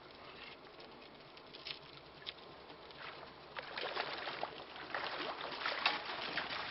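Irregular patter of water splashing and lapping against a small boat's hull, faint at first and louder from about three seconds in.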